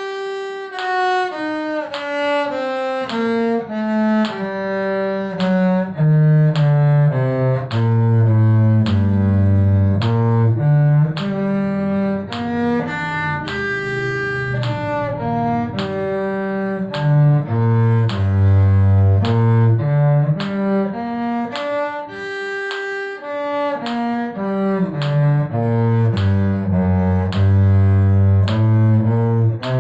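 Bowed cello playing a two-octave scale, stepping note by note down and back up several times, as a scale exercise.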